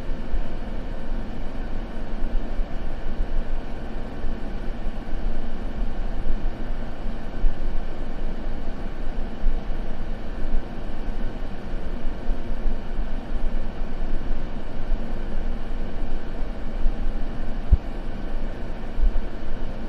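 Continuous white-noise track: a steady, even rush weighted toward the low end, with no change in level.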